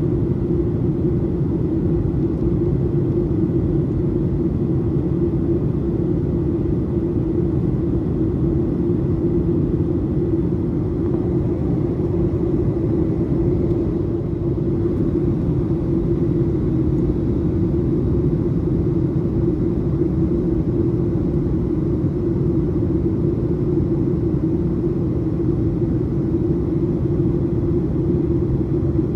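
Steady cabin noise inside a Boeing 737-800: the even rumble of engines and airflow, holding steady throughout, with a faint high whine on top.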